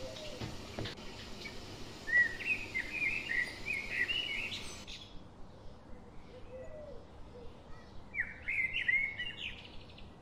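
A songbird chirping in two quick runs of short, curling notes, the first about two seconds in and the second near the end. A steady hiss under the first run cuts off suddenly about halfway through.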